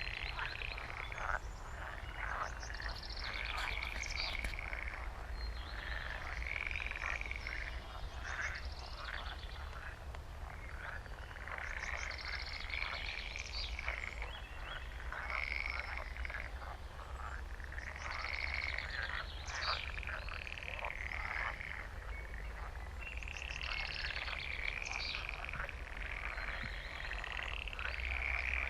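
A chorus of frogs croaking, many overlapping rattling croaks that swell and ease off in waves every few seconds.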